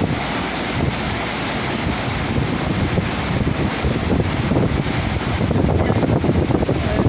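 Steady loud rush of water from a shipboard FlowRider surf simulator's pumped wave, with wind buffeting the microphone.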